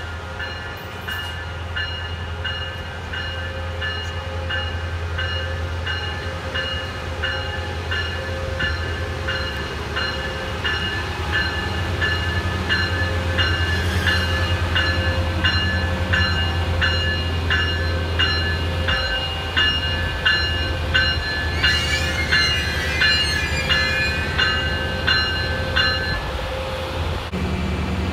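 Siemens SC-44 Charger diesel locomotive pulling an Amtrak Pacific Surfliner train into the station. Its low engine rumble grows louder as it approaches, and a bell rings about every half second. Near the end the brakes squeal for a few seconds as the train slows, and the bell stops shortly before it comes to a stand.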